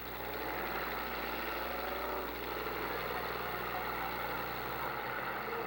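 Demolition derby car engines running steadily at the arena, a dense mechanical din with no single crash standing out.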